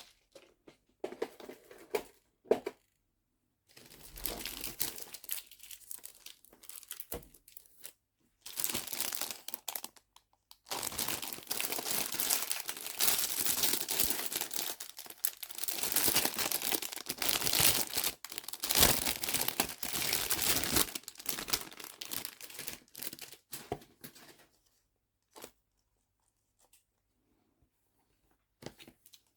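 Crinkling and rustling of plastic packaging handled by hand, in long stretches with short breaks. It is most continuous through the middle, with a few light clicks near the start and end.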